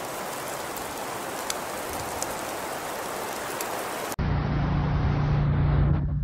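Steady hiss of precipitation falling on a surface, with scattered faint ticks. About four seconds in it cuts off abruptly and gives way to a steady low hum.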